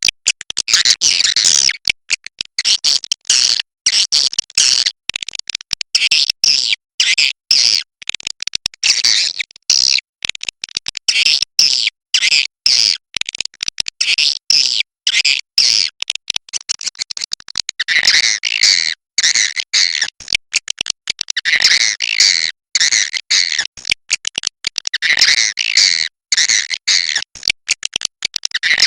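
Swiftlet calls: rapid, high twittering chirps in dense bursts, broken by frequent short silences, with a lower chirping voice joining a little past halfway. This is a swiftlet-house 'inap' lure call, played to draw swiftlets to roost.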